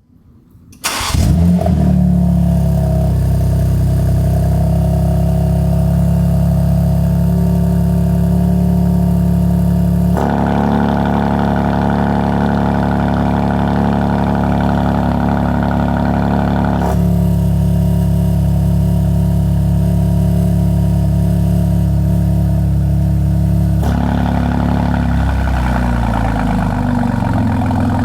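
BMW G82 M4's S58 twin-turbo inline-six starting with its exhaust valves held fully open: it catches about a second in and flares, then holds a steady high idle. The tone changes abruptly three times, and near the end the idle speed drops and settles lower.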